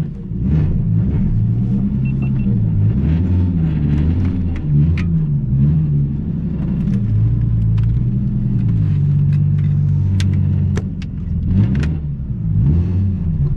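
Nissan 370Z's 3.7-litre V6 engine running at low speed as the car is driven slowly to park. The engine's pitch rises and falls with light throttle, and there are a few faint clicks.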